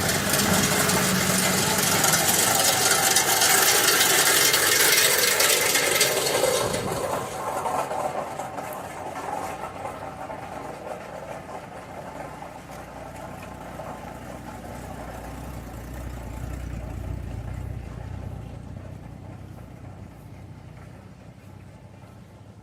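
Antique tractor engine running, loud for the first six or seven seconds, then falling away and fading, with a low hum swelling again for a few seconds in the middle.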